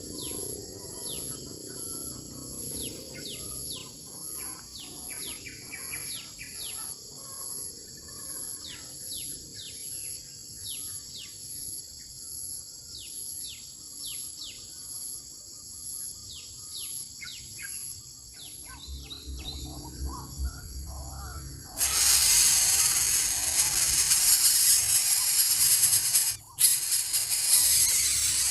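Insects keep up a steady high buzz, with a faster pulsing trill above it, while birds give many short, downward-sweeping chirps. About three-quarters of the way in, a loud even hiss starts suddenly and drowns them out, cutting off briefly a few seconds later.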